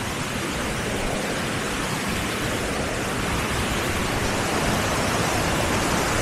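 Steady rushing of water in a stream, growing slightly louder near the end.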